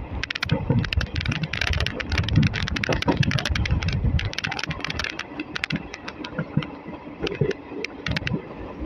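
ICF passenger coach running on the track: a dense, irregular rattle and clatter over a steady low rumble.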